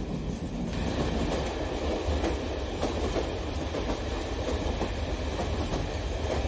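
Electric model train running along its track, with a steady rumble and many small clicks from the wheels passing over the rail joints.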